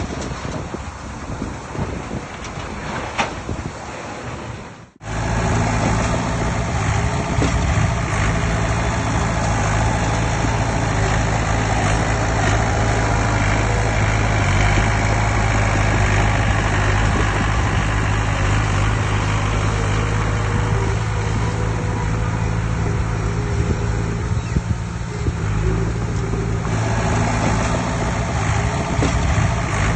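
Heavy diesel earth-moving machine engine running steadily. About five seconds in, the sound cuts sharply from a rougher, noisier stretch to the steady engine.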